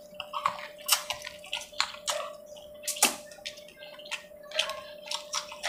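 Wet chewing and lip-smacking from a person eating curry and puri close to the microphone: a quick, irregular run of wet clicks and smacks over a faint steady hum.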